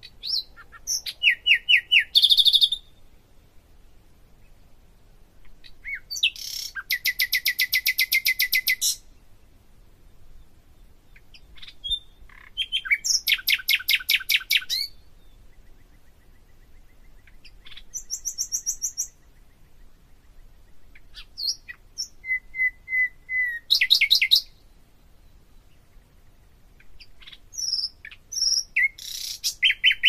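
Bird singing in repeated bouts of rapid trilled chirps, high-pitched, each phrase lasting one to three seconds with pauses of a few seconds between.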